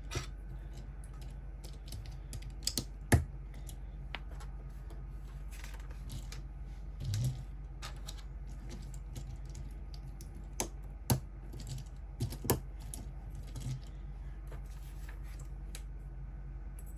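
Irregular small plastic clicks and taps of LEGO pieces being handled and snapped together, a few sharper clicks standing out, over a steady low hum.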